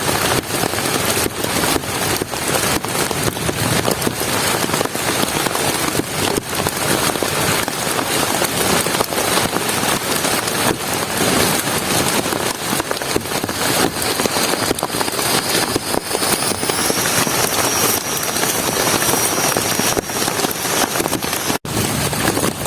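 Heavy rain falling steadily, a dense patter of drops hitting surfaces. The sound drops out for an instant near the end.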